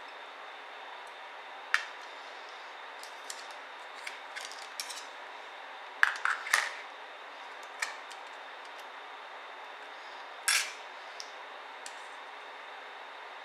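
Scattered sharp clicks and small clatters of hard laptop parts and tools being handled during disassembly, over a steady hiss. The loudest is a quick cluster about six seconds in, and another short clatter comes later.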